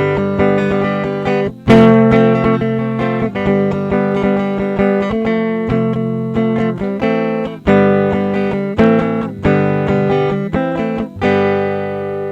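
Solo guitar strumming chords in an improvised instrumental ending to a song, with the last chord left to ring out near the end.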